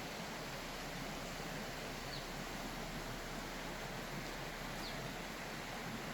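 Steady outdoor background hiss, with two faint, short, high chirps about two and five seconds in.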